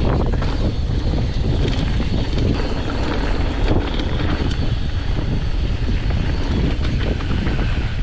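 Wind buffeting the microphone as a mountain bike runs fast down a rough dirt trail, with the tyres rolling over bumps and stones and a steady rattle of small knocks from the bike.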